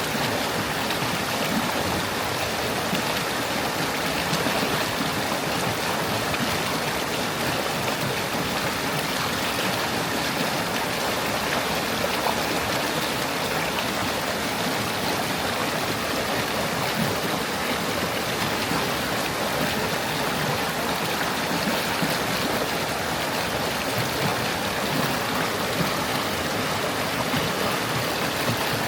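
A forest stream flowing and babbling over stones, a steady wash of running water.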